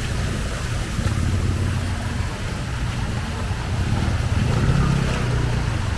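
Steady low rumble of fast-flowing floodwater on a street with a motor vehicle engine running through it. It grows a little louder near the end.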